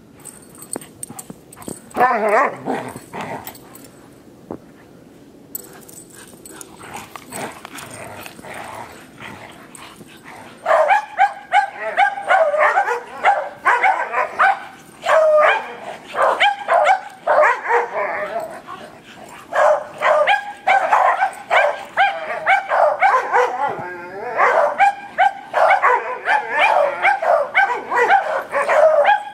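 Dogs barking and yipping in play. One loud call comes a couple of seconds in, then from about ten seconds in a long run of rapid, high, excited barks.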